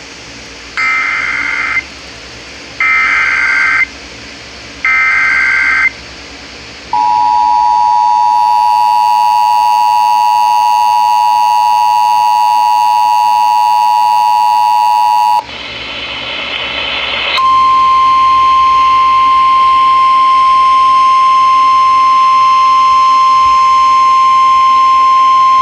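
Emergency Alert System broadcast on FM radio for a severe thunderstorm warning. Three short bursts of the screeching digital data header come about a second apart, then the two-tone attention signal sounds steadily for about eight seconds. After a brief noisy break, a single steady alert tone sounds for about nine seconds.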